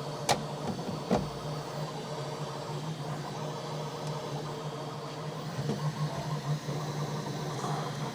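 3D printer running with a steady mechanical hum, with two sharp clicks in the first second or so.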